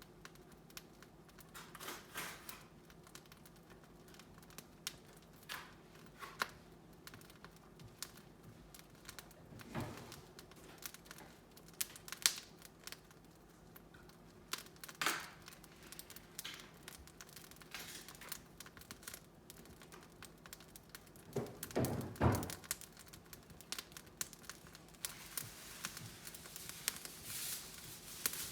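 Wood fire in a fireplace catching and burning: irregular crackles and sharp pops, with a few louder snaps scattered through.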